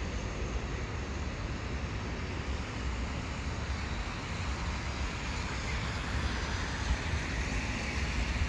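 Exo commuter train of multilevel coaches with a Bombardier ALP45DP locomotive, heard as a steady low rumble with a hiss over it; the hiss grows louder in the last few seconds as the train draws nearer.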